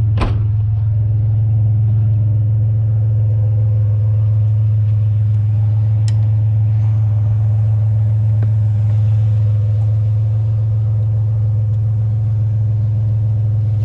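Truck engine and road noise heard from inside the cab while driving, a steady low hum. A sharp knock comes about a quarter second in, and a faint click around the middle.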